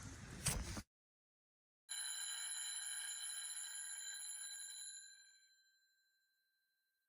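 A single bell-like chime struck about two seconds in, ringing with several clear high tones and fading away over about three seconds, preceded by a moment of faint background noise cut off into silence.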